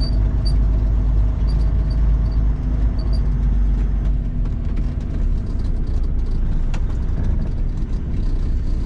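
Freightliner FLD120's Cat 3406E diesel engine running at low speed as the truck creeps across a lot. The heavy low rumble eases somewhat after about two and a half seconds, with a few light clicks over it.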